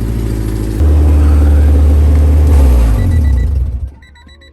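Honda K24 engine in an Acura Integra running at last after a long no-start fault. It picks up about a second in, holds there for about three seconds, then cuts off suddenly near the end, leaving faint repeated electronic beeps.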